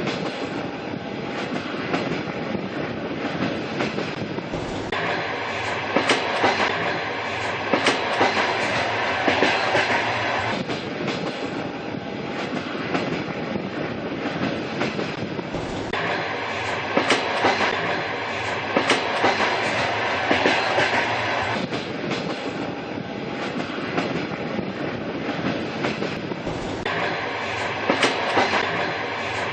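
Train running on rails: a steady rumble with the clickety-clack of wheels over rail joints. A hiss comes and goes about every five seconds.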